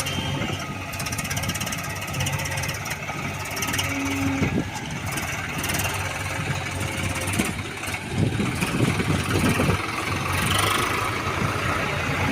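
Diesel engine of heavy machinery running steadily, with a rougher, louder stretch about two-thirds of the way through.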